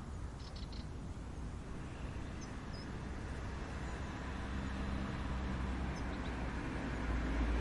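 A low engine hum growing steadily louder, like a distant vehicle approaching, over a steady outdoor hiss. A few short, high bird chirps, three in quick succession about half a second in, then single ones later.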